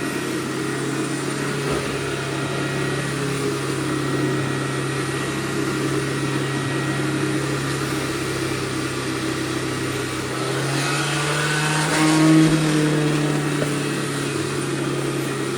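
Hoover Shoulder Vac Pro backpack vacuum running steadily while vacuuming through its wand, a constant motor hum with rushing air; about two-thirds of the way through the motor pitch rises and it gets briefly louder, then settles again.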